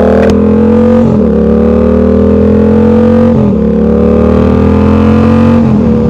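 Motorcycle engine pulling under load and upshifting: the note climbs slowly in each gear and drops sharply at each change, three times.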